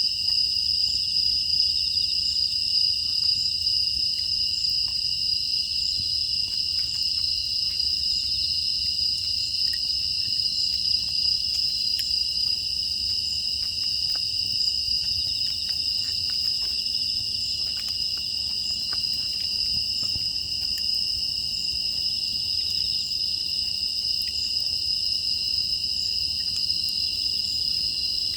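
Night chorus of crickets and other grass insects: a steady, unbroken high trilling, with a few faint scattered ticks underneath.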